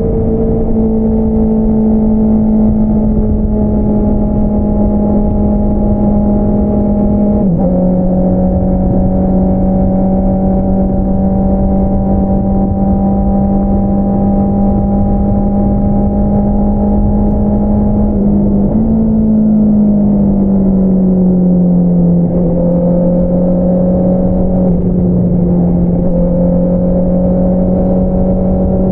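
2022 Honda CBR650R's 649 cc inline-four running through an Akrapovič single-outlet exhaust while riding at a fairly steady engine speed. The pitch dips briefly about seven seconds in, then rises and eases down again about two-thirds of the way through, as with gear changes or throttle changes.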